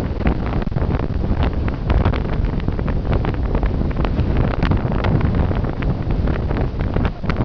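Gale-force gusting wind hitting the microphone: a loud, continuous low rumble with frequent crackling pops from the buffeting.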